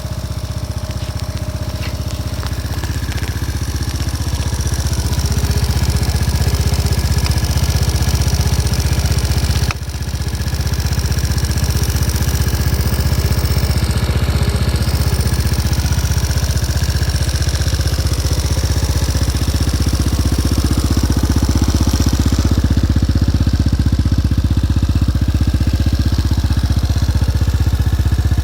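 Overhauled motorcycle engine idling steadily, getting a little louder over the first few seconds, with a brief dip in level about ten seconds in.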